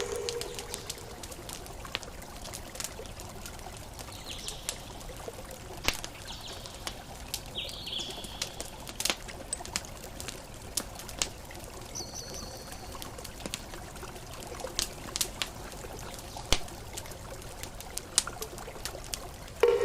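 Campfire crackling with scattered sharp pops over a steady wash of ocean waves, with a few brief high chirps. Right at the end a loud ringing tone with overtones begins.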